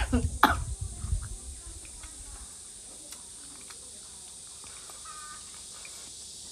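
A woman's voice exclaiming briefly at the start, then quiet chewing and mouth clicks of someone eating.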